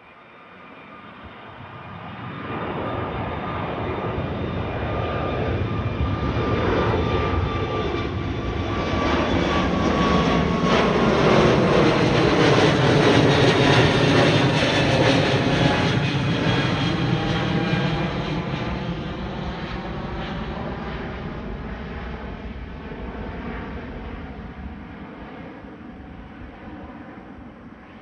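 Jet airliner passing overhead as it climbs out after take-off. The engine roar builds over several seconds, peaks about halfway through, then fades as it moves away, with a whine that falls slowly in pitch.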